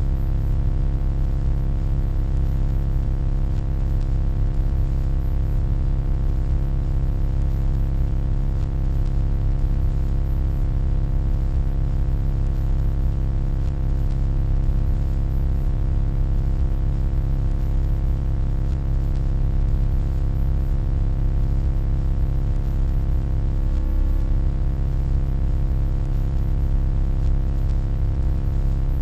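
Steady electronic hum, deepest and loudest in the low end, with a stack of even, unchanging tones above it and no change in level.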